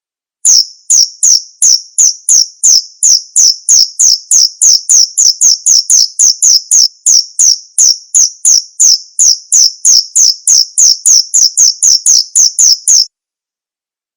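Male cricket chirping its calling song: a regular train of short, high-pitched chirps, about three a second, that cuts off suddenly near the end.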